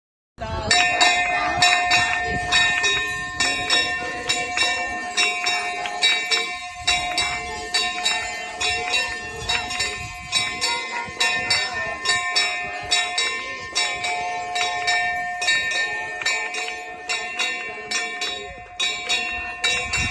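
Bells struck rapidly and continuously, their ringing tones held at a few fixed pitches. The ringing starts suddenly about half a second in.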